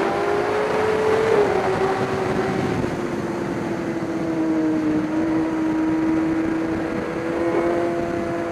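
Race engine running at a fairly steady speed, its pitch easing slightly lower over the first few seconds and then holding level.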